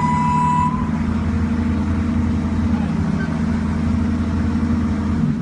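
A large engine running steadily, with a steady high-pitched warning tone that cuts off about 0.7 s in; the engine drone drops away just before the end.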